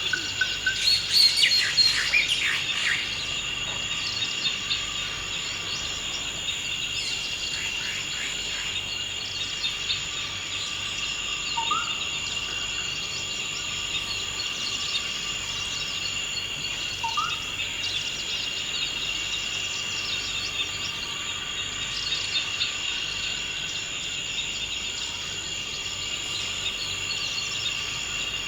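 Forest ambience: a steady, high insect chorus runs throughout, with a burst of bird chirps in the first few seconds and two short rising bird whistles later on.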